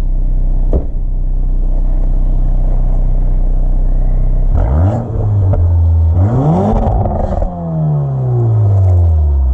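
2022 Porsche Macan's turbocharged four-cylinder engine idling, then revved twice about halfway through. The second rev climbs higher and the engine settles slowly back down to idle near the end.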